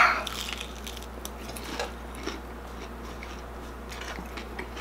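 A crunchy bite into chicharon bulaklak, deep-fried pork mesentery, loudest right at the start, then close-up chewing with scattered small crunches.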